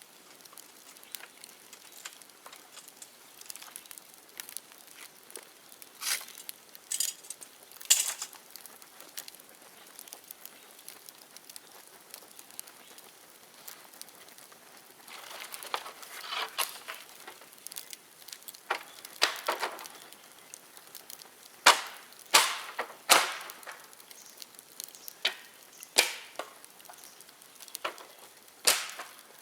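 Bonfire of dry dead bamboo crackling, with irregular sharp pops and snaps as the bamboo burns; the pops come thicker and louder in the second half.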